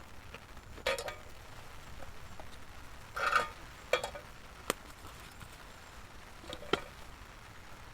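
Light clicks and knocks of camp cooking gear being handled, about five scattered over several seconds, the loudest a short rattle about three seconds in.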